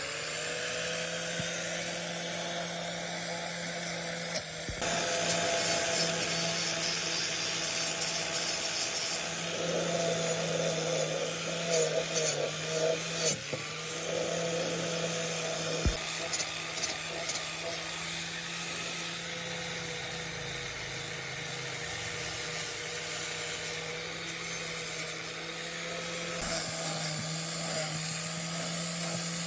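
Handheld electric power tool running steadily with a high whine, with rougher, uneven patches in the middle stretch as it works against the part.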